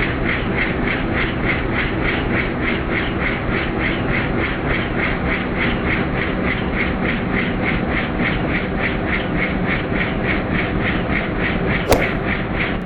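Helicopter in flight, heard from inside: the rotor blades beat steadily about four times a second over a constant engine rumble. A single sharp click comes near the end.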